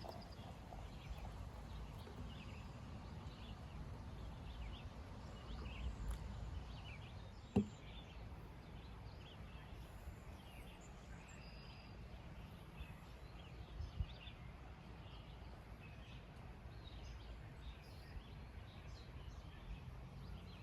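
Faint outdoor ambience with a low steady rumble and scattered short bird chirps. A single sharp click comes about seven seconds in, and a softer knock comes later.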